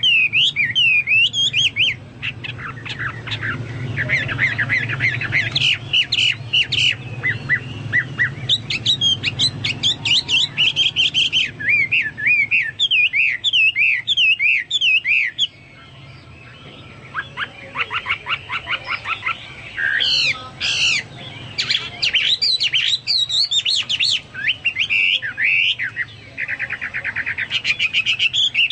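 Chinese hwamei (hoa mi) singing loudly in long runs of rapid warbling whistles with quick rattling trills between phrases, a song like that of the cucak Papua or cucak mas.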